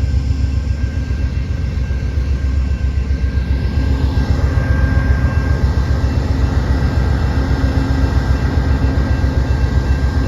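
Amtrak P42 diesel locomotive running steadily, a heavy low engine rumble with a faint steady whine above it.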